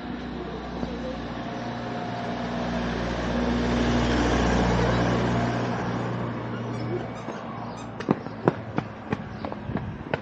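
A car passes by, its engine and tyre noise growing to a peak about halfway through and then fading away. Near the end, a quick series of sharp clicks or taps.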